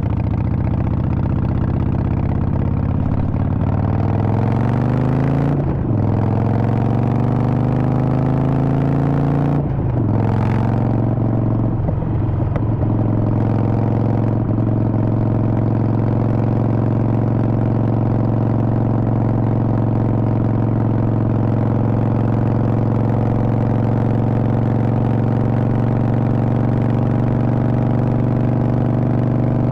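Harley-Davidson Sportster Forty-Eight's 1200 cc air-cooled V-twin running under way. The engine pitch climbs and drops back twice as it shifts up through the gears in the first ten seconds, then holds steady at cruising speed.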